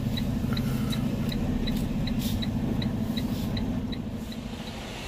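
Inside a semi-truck cab: the engine drones steadily while a turn-signal flasher ticks evenly, a little under three times a second. The ticking stops and the drone eases off near the end.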